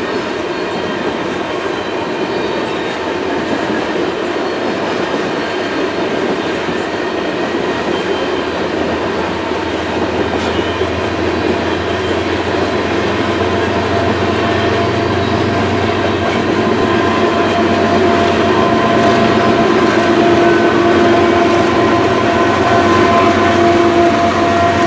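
Loaded coal hopper cars rolling past with a steady rumble and clatter of wheels on rail, growing gradually louder. Near the end a mid-train distributed-power locomotive, a Canadian Pacific GE ES44AC, comes up with a steady diesel engine hum.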